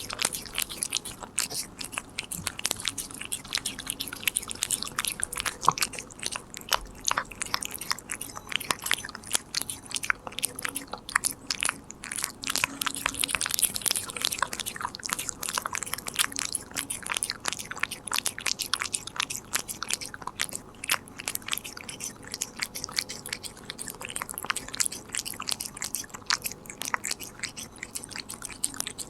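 A Korean shorthair cat chewing a treat close to the microphone: a quick, irregular run of crisp crunching clicks, several a second.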